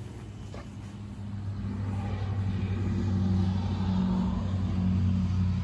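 A steady low engine hum that grows louder about a second and a half in and then holds.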